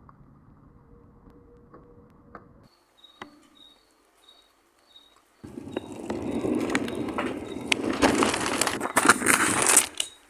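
Thunder from a nearby lightning strike: a sudden loud, crackling crash about five seconds in that lasts roughly four seconds. Before it there is a hush with faint, high chirps repeating about twice a second.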